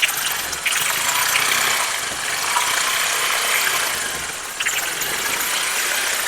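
Honda Shine SP's 125 cc single-cylinder engine running steadily.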